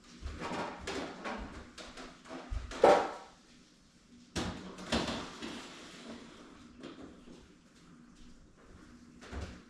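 Knocks, scrapes and clatter of heavy things being handled and moved, with one loud bang about three seconds in.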